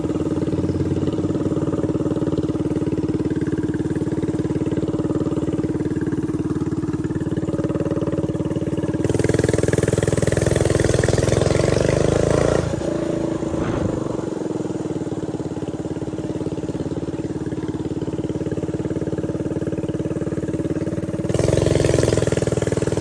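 Small mini bike engine running under way, opened up about nine seconds in, then revs falling off sharply a few seconds later, and opened up again near the end.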